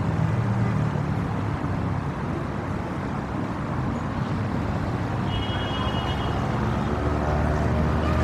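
City street traffic: vehicle engines running with a steady hum, and a brief high tone about five seconds in.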